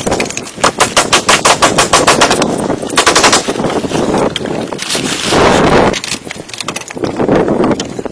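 Woodworking tool at work on hardwood: a rapid train of sharp knocks, about ten a second, for the first three seconds, then several short noisy bursts.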